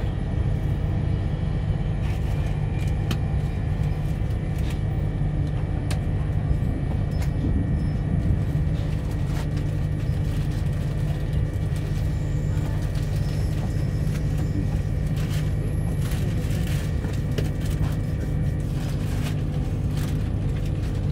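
Steady low rumble of the Rockhampton Tilt Train running at speed, heard from inside the carriage, with scattered light clicks and rattles.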